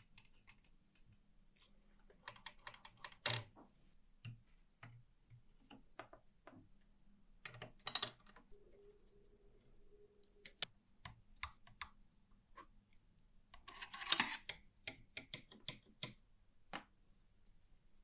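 Irregular sharp clicks and light metallic clatter from small parts of an old Olympia typewriter being handled and worked on, in several quick flurries with single clicks between them.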